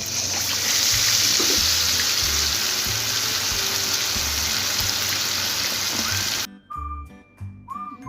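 Loud steady hiss of rushing water over background music with a steady bass beat; the water sound cuts off abruptly about six and a half seconds in, leaving only the music.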